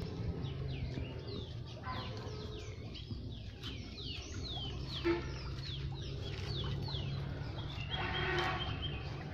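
Birds calling: many short, high, falling chirps in quick irregular succession, over a steady low hum. A harsher, buzzier call comes near the end.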